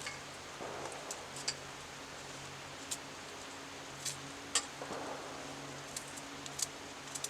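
Knife cutting onion by hand, with scattered sharp clicks as pieces are sliced and drop into a pan, over a faint steady low hum.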